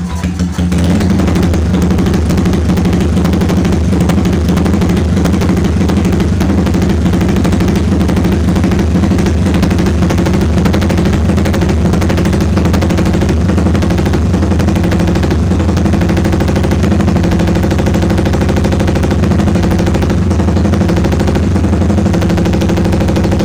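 Yamaha Vixion's single-cylinder four-stroke engine running steadily through a Conelo Lone Rider cone racing exhaust, a loud rapid staccato exhaust beat. It steps up in loudness about a second in and then holds steady.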